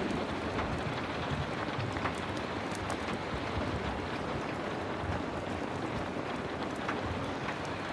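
Heavy rain falling steadily, with scattered small sharp crackles and ticks through it.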